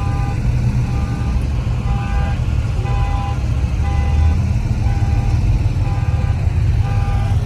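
Steady low vehicle rumble, with a repeating run of short high electronic beeps at a few different pitches, about two a second.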